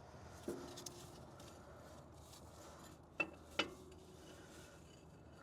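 Steel front axle shaft with its U-joint knocking against the knuckle and housing as it is worked out of the axle: three light metallic clunks with a short ring, one about half a second in and two close together a little past the middle.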